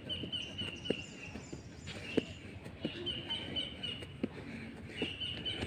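A bird calling in several runs of short, evenly spaced high notes. Occasional soft thuds come from hands and feet landing during burpees on rubber matting.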